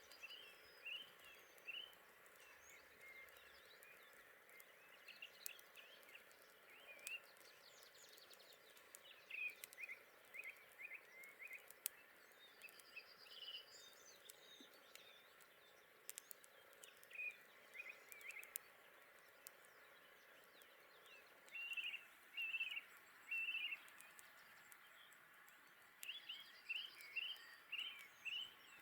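A songbird singing groups of short, quick chirps every few seconds over a faint steady outdoor hiss, with scattered sharp little clicks in between.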